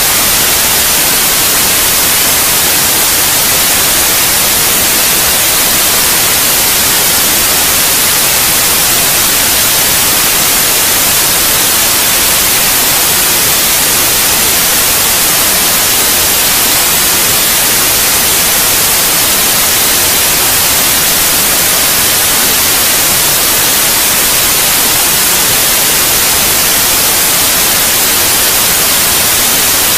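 Steady, unchanging white noise: an even, loud hiss that is strongest in the highs, used as a sleep aid for babies.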